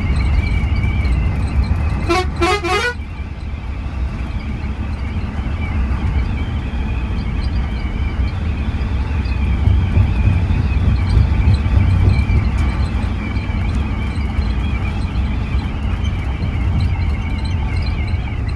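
Scania bus running under way, a steady low engine and road rumble. About two seconds in, its horn gives a short toot lasting under a second.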